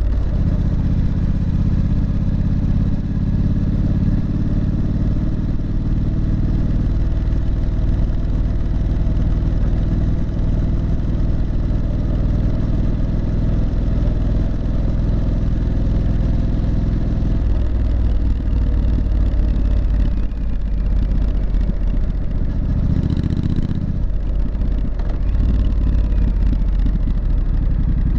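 Triumph Street Scrambler's 900 cc parallel-twin exhaust note while riding. It is steady for most of the stretch, then changes pitch and varies as the revs change about two-thirds in.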